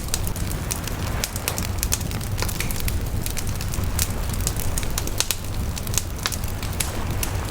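Wood bonfire crackling, with many sharp pops at irregular intervals over a steady low rumble.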